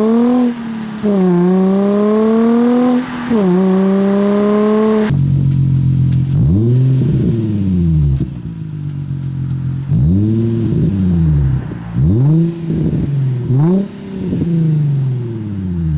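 Nissan 350Z's 3.5-litre V6 through a Greddy Ti-C titanium single exhaust, pulling hard with rising pitch and two upshifts in the first five seconds. It then idles, with about five quick throttle blips that rise and fall sharply.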